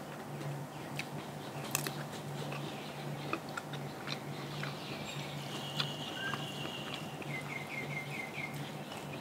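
A person chewing and crunching food, with scattered small crunches, over a low hum that pulses about twice a second. A bird chirps in the background in the second half, ending in a quick run of about five chirps.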